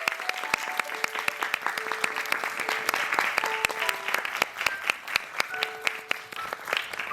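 Theatre audience applauding: dense, steady clapping, with a few faint held notes over it.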